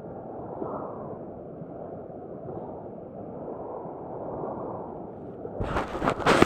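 Sea surf washing with slow swells. About five and a half seconds in, a sudden loud rushing noise on the microphone takes over and becomes the loudest sound.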